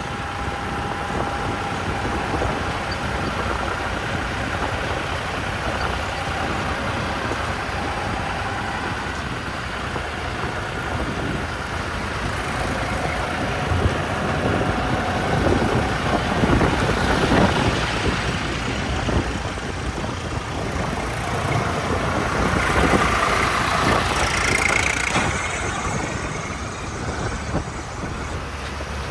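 Diesel engine of a JCB 3DX backhoe loader running steadily while it digs and loads mud, rising in pitch and loudness under load twice, around the middle and again about two-thirds of the way through, with a rising whine.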